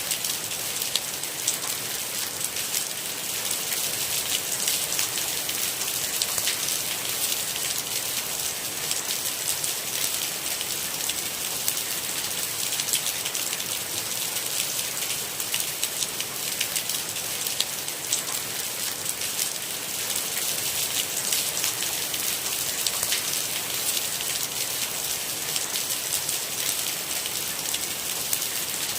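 Steady rain falling, a dense even hiss with the patter of many individual drops and no thunder.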